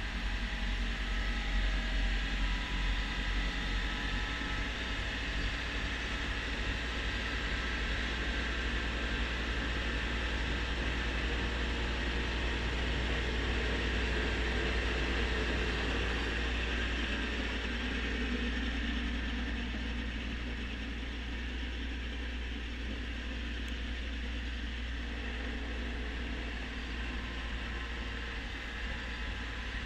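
Kubota B2650 compact tractor's three-cylinder diesel engine running steadily with its front-mount snowblower working, a constant engine drone over a rushing hiss that eases a little after about 20 seconds.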